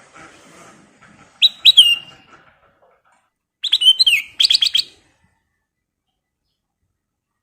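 Black-crested bulbul (kutilang emas) singing two short, loud whistled phrases. The first falls in pitch; the second ends in a quick run of repeated notes. The sound stops dead after the second phrase.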